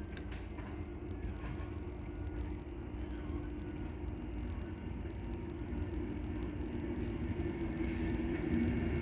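Freight wagons rolling past on the rails: a steady low rumble that grows louder toward the end, with faint high tones joining near the end and a couple of sharp clicks at the start.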